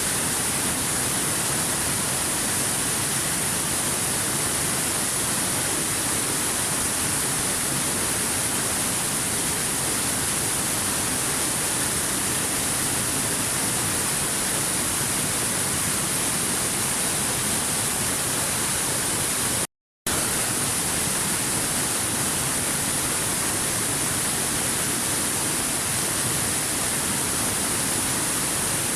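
Waterfall: a steady, even rush of falling water, with a high hiss. The sound cuts out completely for a split second about twenty seconds in, then resumes unchanged.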